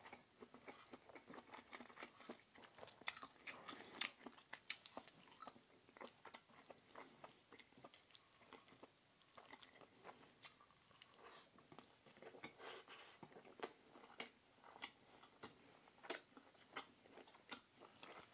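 A person chewing food close to the microphone: quiet, irregular wet clicks and smacks of the mouth, several a second.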